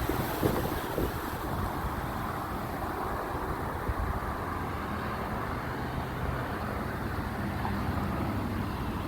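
A motor vehicle running steadily, a low engine hum under a wash of road and air noise, with a few light knocks in the first second.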